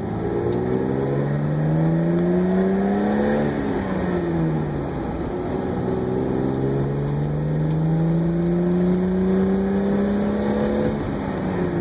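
Car engine heard from inside the car while driving, its pitch climbing for about three and a half seconds, falling back, then climbing steadily again before dropping once more near the end, with steady road noise underneath.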